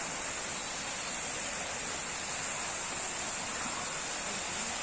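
Waterfall's rushing water: a steady, even rush, with a steady high-pitched hiss on top.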